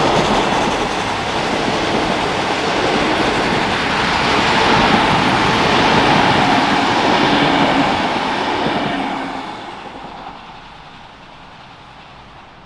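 A train passing close by, its wheels clattering over the rail joints. The sound fades away over the last few seconds as the train moves off.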